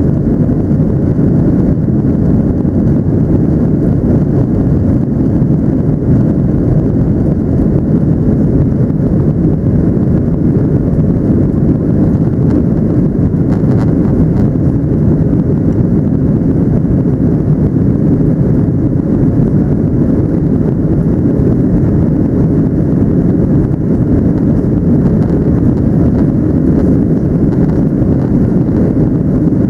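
Steady low rumble of a Boeing 737-700 heard from inside the cabin: engine and airflow noise, even and unchanging throughout.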